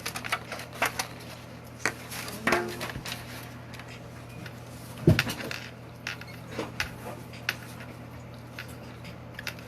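Eating sounds: scattered clicks and taps of a utensil against a takeout food container, with a louder knock about five seconds in, over a steady low hum.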